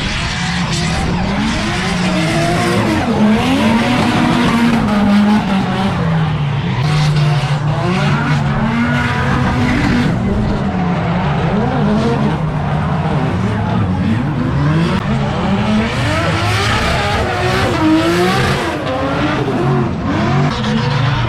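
Drift car engine on a practice run, its revs rising and falling again and again as the driver works the throttle, with tyres skidding and squealing.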